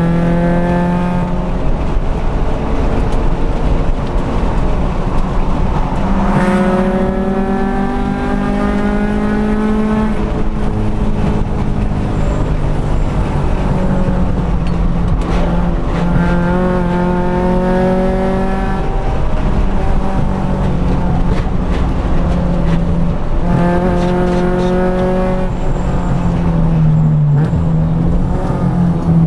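Honda four-cylinder B20 VTEC engine heard from inside the cabin under hard acceleration, its pitch climbing through each gear and dropping back at each upshift, several times over.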